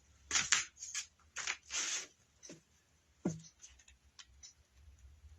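A handful of short rustling, scraping sounds of something being handled, the loudest in the first two seconds.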